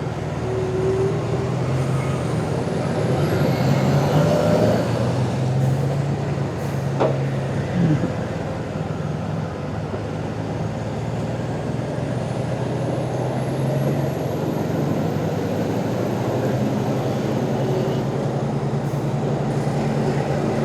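Motorcycle engine running steadily under a constant rush of wind and road noise, with a sharp knock about seven seconds in.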